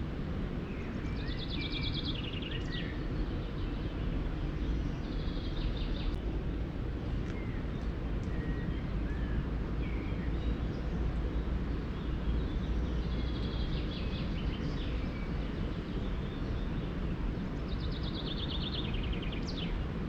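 A songbird sings several short trilled phrases, each a rapid run of notes stepping down in pitch, with a few faint chirps between them. Under the song runs a steady low rushing noise.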